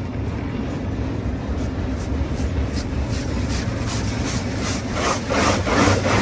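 A brush scrubbing the truck in a steady back-and-forth rhythm, about three strokes a second, growing louder near the end, over a steady low hum.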